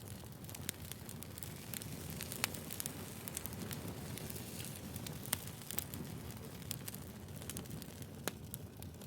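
Wood fire crackling: a steady low rumble of burning logs with irregular sharp snaps and pops, a few of them louder.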